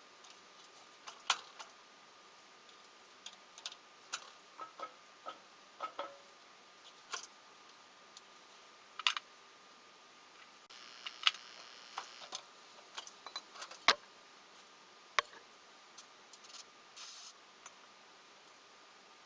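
Irregular clicks and light metallic taps, a few sharper knocks among them, as of tools and small engine parts being handled, with a faint steady high tone underneath and two brief hissy stretches, one a little past halfway and one near the end.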